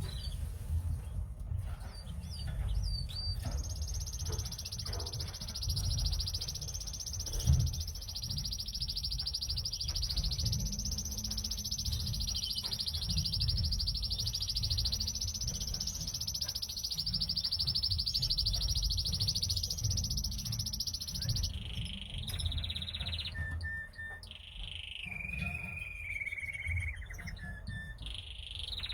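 Domestic canary singing: one long, very rapid rolling trill held for about eighteen seconds, then shorter varied whistled notes and glides near the end, over a steady low rumble.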